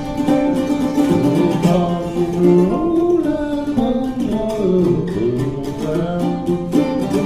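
Mandola picked and strummed in a blues instrumental passage between sung verses, dense plucked notes with bent pitches.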